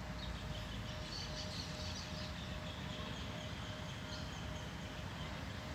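Steady outdoor background noise with faint high chirps over it.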